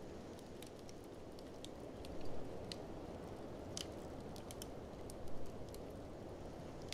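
Wood fire crackling in a fireplace, with scattered sharp snaps and pops, over a steady rushing blizzard wind. Two louder bursts stand out, one about two seconds in and one about five seconds in.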